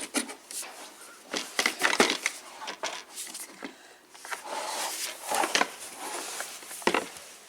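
Plastic toy parts being handled and fitted together, with scattered irregular clicks, knocks and rustling.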